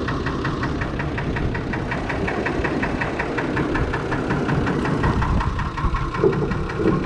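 Fordson Major tractor's swapped-in Perkins six-cylinder diesel engine idling steadily, with an even, rapid diesel clatter.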